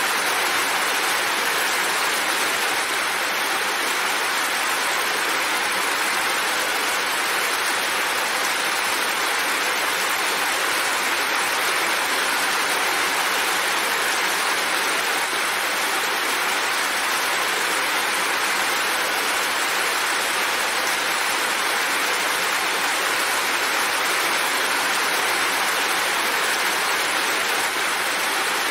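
Steady heavy rain falling, an even hiss that holds the same level without a break.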